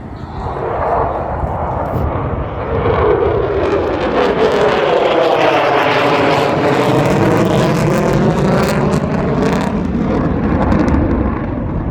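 Military jet fighter making a loud low flyby. Its engine rush builds, peaks in the middle with a sweeping, phasing tone as it passes, then eases off.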